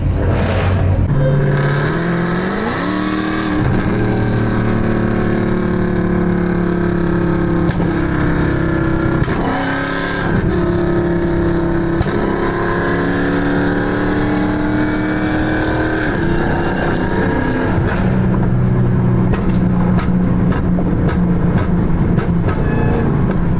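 Car engine accelerating: its pitch rises about two seconds in, then holds a steady drone under load with small shifts in pitch for the rest of the stretch.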